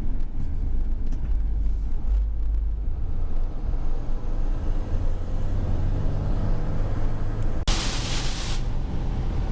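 Steady low drone of a tow vehicle's engine and road noise, heard from inside the cab while it tows a heavily loaded boat trailer. Nearly eight seconds in it cuts off abruptly and a loud hiss takes over.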